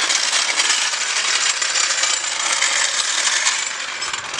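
Metal floor jack rattling with a dense, steady run of small metallic clicks as it is lowered and worked clear of the car, easing off slightly near the end.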